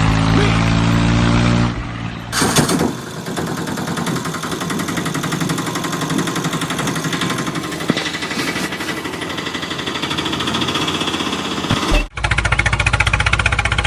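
Small motor of a DIY miniature tractor running with a rapid, even buzzing rattle, mechanical like a tiny engine or jackhammer. The sound changes abruptly about two seconds in and again near the end.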